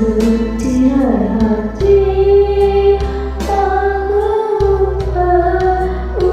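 Malay pop ballad: long held sung notes that slide between pitches, over a steady bass line and light percussion.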